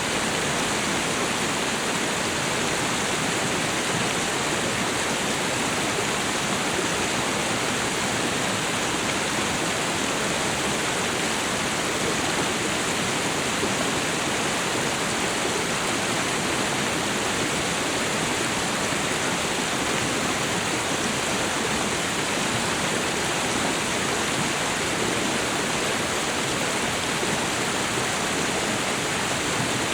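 Waterfall and river water rushing in a steady, even roar of white noise, without change or separate splashes.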